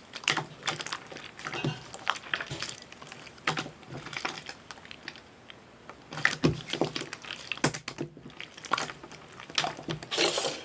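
Hands squeezing and poking toy slime, making irregular wet clicks, pops and squelches, with a brief lull about halfway through.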